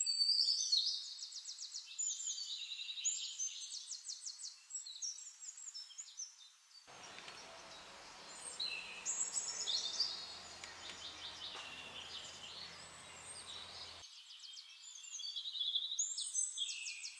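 Small birds singing: rapid high-pitched chirps and fast trills, repeated throughout. For several seconds in the middle, a faint steady hum and hiss lies underneath.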